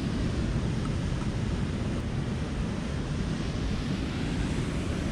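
Waterfall rushing, a steady, unbroken noise with a strong low rumble.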